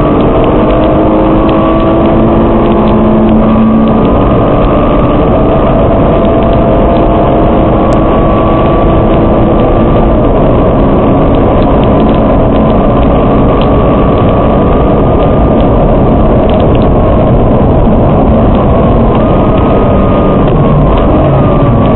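Nissan GT-R R35's twin-turbo V6 heard from inside the cabin at speed on track, loud and continuous over heavy road and wind noise. Its pitch climbs slowly, drops sharply a couple of times as it changes gear, and shifts again near the end.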